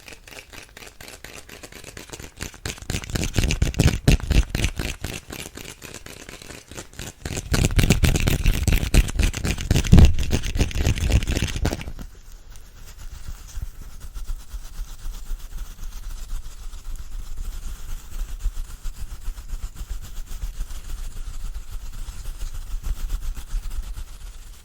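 ASMR brush bristles swept rapidly over the microphone, a dense scratchy rustle that swells louder twice. About twelve seconds in it stops abruptly, leaving a quieter, softer rustle.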